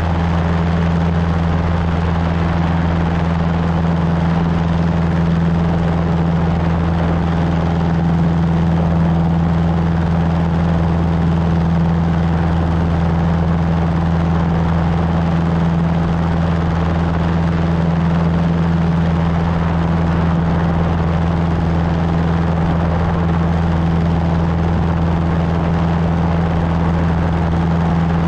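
Cessna 150's four-cylinder Continental O-200 engine and propeller running at a steady, unchanging power setting: a constant low drone.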